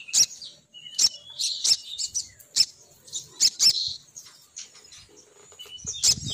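Sogon bird lure call: bursts of sharp, high chirps repeated in quick clusters with short gaps, the female's call used to draw males down. A low rumbling noise comes in near the end.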